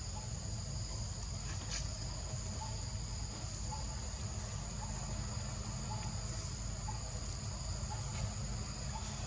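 Steady, high-pitched buzzing of an insect chorus on two pitches, with faint short chirps every second or so and a low rumble underneath.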